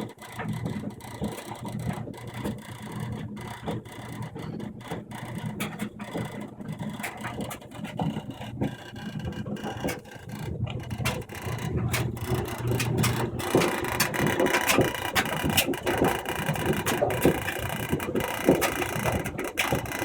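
Kenmore clothes dryer running with an irregular scraping, rubbing mechanical noise over a steady hum, growing louder about two-thirds of the way through. The noise comes on 15–25 minutes into the cycle and stops for a while if the dryer is shaken. A service technician called it normal.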